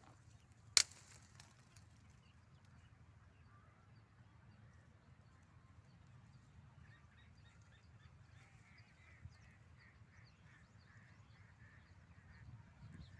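Faint bird calls, a run of short repeated notes in the middle, over a low steady outdoor rumble; a single sharp click about a second in.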